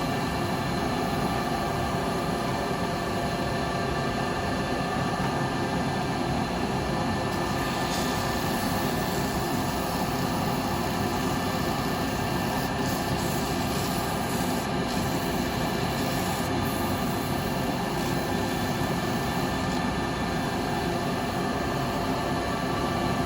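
Wood lathe running steadily with a bowl turning on it: a steady motor hum with even noise.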